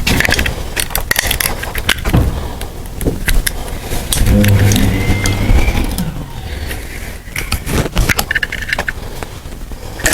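Clicks and clatter of tools and parts being handled on a workbench, with a low hum for about two seconds in the middle.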